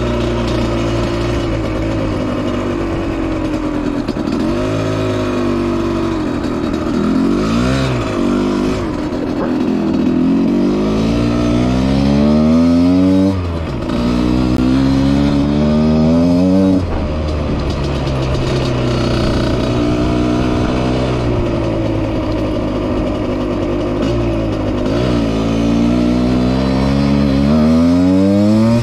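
Husqvarna SM 125 two-stroke motorcycle engine under way, the revs climbing in repeated rising sweeps, each cut off by a sudden drop as it shifts or comes off the throttle, with steadier stretches between.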